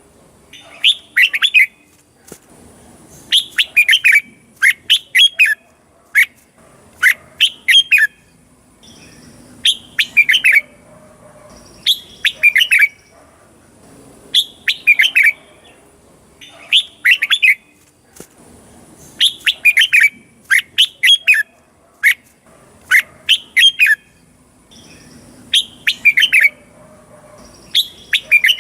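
Red-whiskered bulbul singing: short, loud phrases of clear whistled notes that sweep downward, repeated every second or two with brief pauses between.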